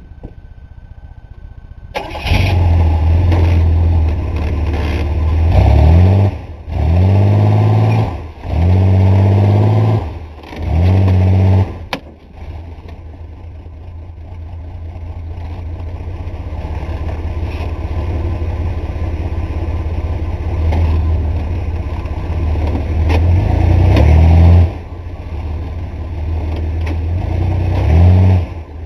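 Pickup truck engine revving hard under load in repeated bursts, each one rising in pitch before it drops, as the 1985 Chevy S10 tries to climb. It then runs more steadily and slowly builds, with two more rev-ups near the end.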